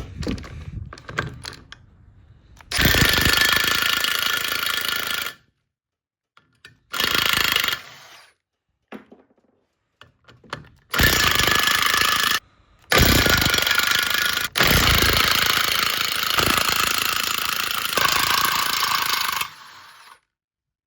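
Impact wrench hammering in five bursts, the last and longest about five seconds, working stubborn bolts loose that a smaller impact wrench could not shift.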